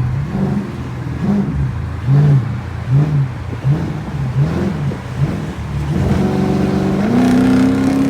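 Dodge Charger R/T's 5.7-litre Hemi V8 through a straight-piped exhaust, resonators and mid-muffler deleted and cats kept, revved in a series of short blips, then pulling with a steady rise in pitch near the end.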